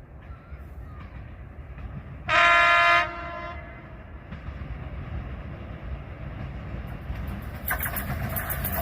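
Freight train locomotive sounding one short horn blast, a little under a second long, about two seconds in, over a steady low rumble. Near the end the train's running noise grows louder as it draws closer.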